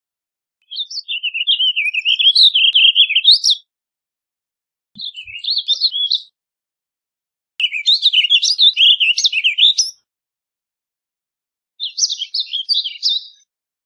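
Warbling vireo singing: four rambling, warbled song phrases, each lasting one to three seconds, separated by short pauses.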